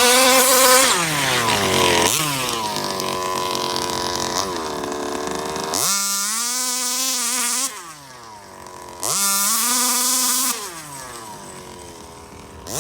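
Rovan 34cc two-stroke engine in a 1/5-scale RC Baja, revving hard and backing off again and again as the car is driven. Its pitch climbs and drops several times, with a long full-throttle stretch in the middle and a falling, quieter tail near the end.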